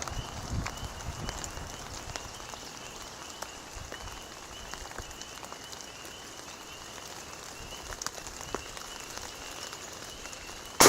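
Steady rain pattering, with scattered drop ticks and a faint high pulsing trill repeating in the background. Right at the very end a loud gunshot goes off.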